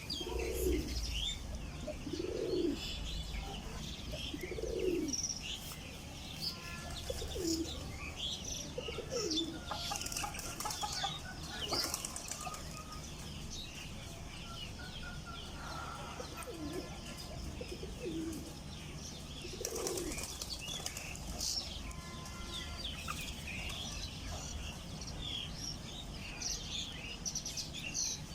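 Chicks peeping with many short high chirps throughout, and a hen's low rising-and-falling calls about once a second in the first five seconds, with a few more later.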